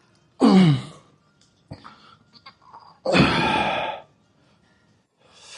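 A man groaning and exhaling hard with effort while lifting weights: a loud groan falling in pitch about half a second in, and a second, harsher strained groan about three seconds in, with a few faint knocks between.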